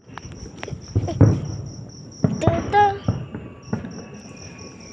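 Crickets chirping steadily, about four to five chirps a second, under scattered distant bangs and pops of New Year's fireworks, the loudest about a second in. A short pitched whistle or whoop sounds near the middle.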